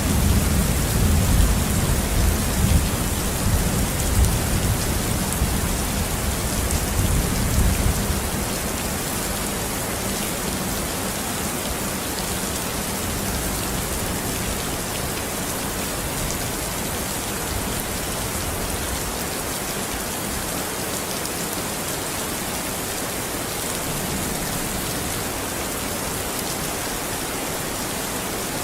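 Steady rain hissing, with a roll of thunder rumbling low under it for the first eight seconds or so before it dies away, leaving only the rain.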